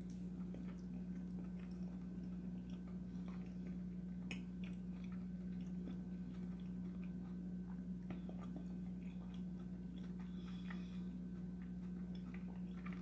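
A person chewing a mouthful of spaghetti in tomato sauce, faint soft irregular mouth clicks, over a steady low hum.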